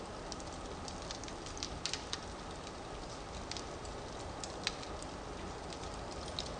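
Firewood burning in a fireplace: a steady low rush of flame with irregular sharp crackles and pops, a few a second.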